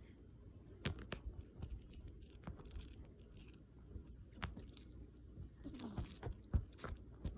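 Faint scattered clicks, scratches and rustles of a kitten biting and tugging on an object held in its mouth.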